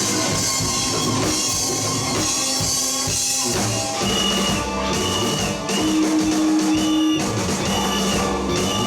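Live rock band playing an instrumental passage on electric guitars, bass guitar and drum kit, with no singing. About halfway through, a short high guitar note starts repeating over the band.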